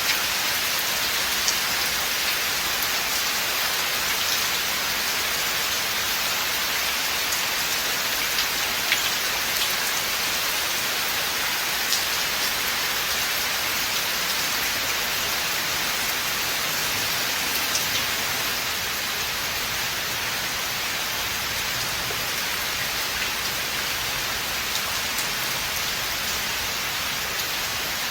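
Steady rain falling in a forest, a continuous hiss of drops with scattered sharper individual drop ticks, easing very slightly about two-thirds of the way through.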